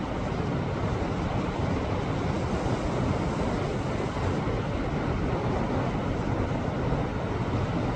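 Sea waves washing against shoreline rocks, a continuous rush of surf.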